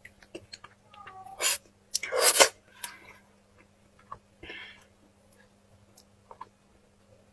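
Close-miked eating sounds: a few short, loud slurping or sucking bursts about a second and a half to two and a half seconds in, with softer ones and small mouth clicks and smacks scattered between.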